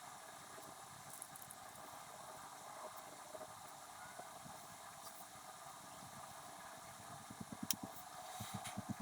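Faint steady hiss with scattered light clicks, and a quick run of soft low thumps with one sharp click near the end.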